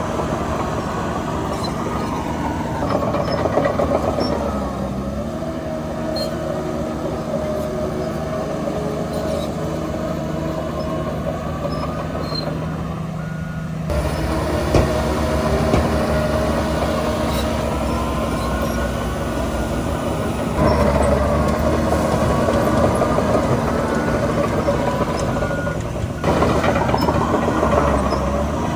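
Heavy earthmoving machinery at work: large diesel engines running under varying load, the engine note rising and falling, getting louder a little past halfway and again near the end.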